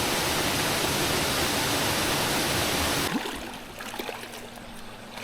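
Steady rushing water of a stream or waterfall that cuts off abruptly about three seconds in, leaving a much quieter background with a few faint clicks.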